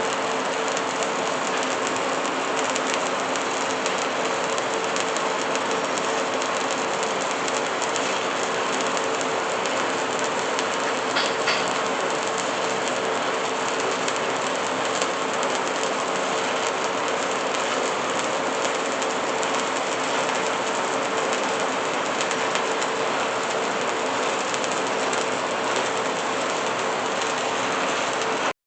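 Stick-welding arc on pipe crackling and hissing evenly for the length of a bead, with a steady hum underneath. It cuts off abruptly at the end.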